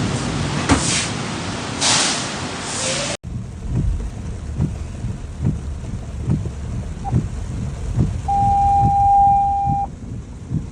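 Heavy rain pouring, with gusts that swell and fade, then an abrupt cut to a regular run of low thumps a little over once a second and a single steady beep lasting about a second and a half near the end.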